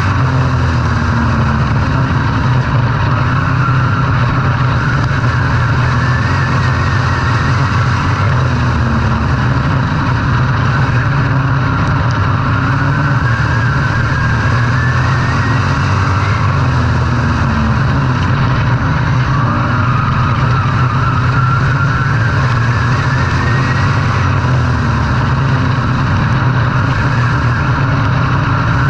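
A vehicle engine running loud and steady, with a few slow rises in pitch.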